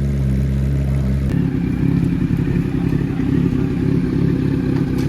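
Motorcycle engine running, with a steady low hum that changes abruptly about a second in to a rougher, uneven engine sound. The sound cuts off suddenly at the end.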